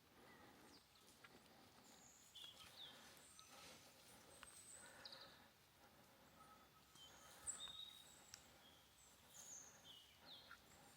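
Quiet forest ambience with faint bird calls: short high chirps and brief whistles scattered throughout, with a few soft clicks or rustles.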